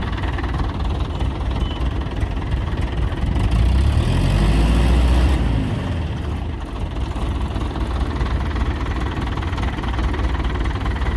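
Diesel engine running with a knocking idle, revved up about four seconds in for a second or two, then dropping back to a steady run.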